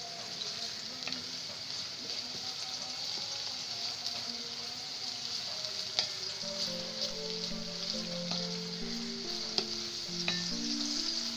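Sliced onions and dried shrimp sizzling in hot oil in a stainless steel pan, stirred with a wooden spatula that knocks and scrapes against the pan several times.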